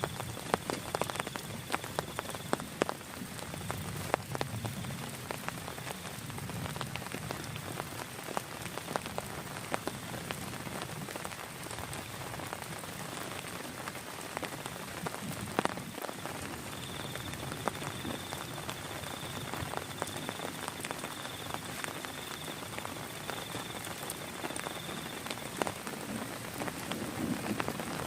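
Steady rain falling, with many sharp individual drops ticking on nearby surfaces. A faint high steady tone comes and goes over the top.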